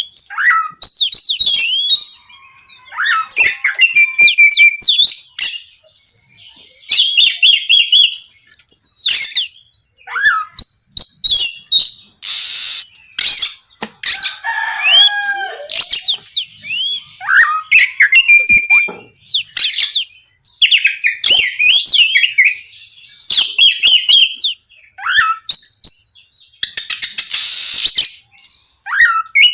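Oriental magpie-robin (kacer) singing loudly and almost without pause: fast, varied phrases of rising whistles and rapid trills. Harsh rasping notes come twice, about twelve seconds in and near the end.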